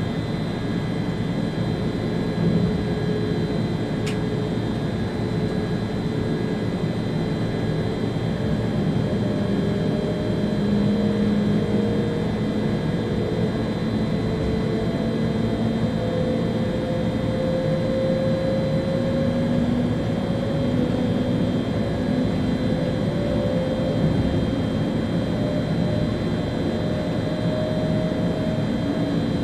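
ÖBB Railjet train running at speed, heard from the driver's cab: a steady rumble of wheels and air with humming electric traction tones that slowly rise in pitch as the train gathers speed. A brief click about four seconds in.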